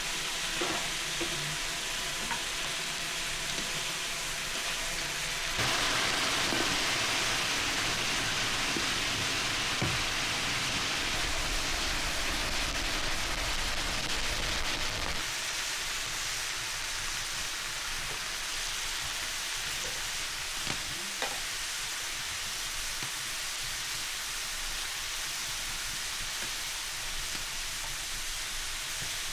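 Food frying in hot oil, a steady sizzling hiss with a few small pops. It gets louder about six seconds in and thins out about halfway through.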